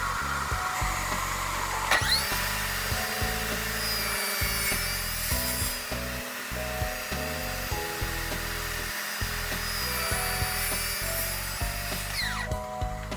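An electric power tool's motor spins up about two seconds in, runs working wood, and winds down near the end. Background music plays throughout.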